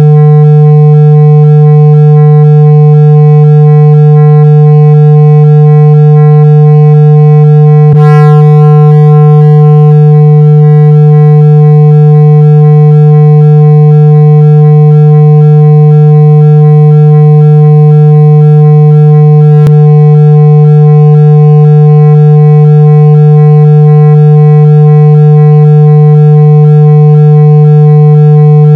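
Loud, steady 165 Hz low tone, a continuous test signal played at full volume to shake water out of a phone speaker, with fainter overtones above it. A brief click about eight seconds in.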